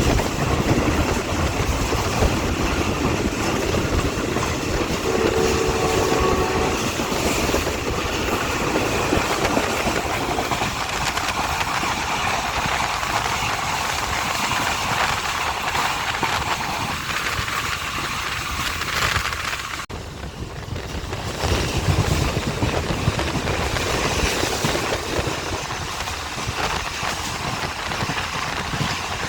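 Passenger express train running at speed, with a steady rumble and rattle of wheels on the rails. A brief steady tone sounds about five seconds in.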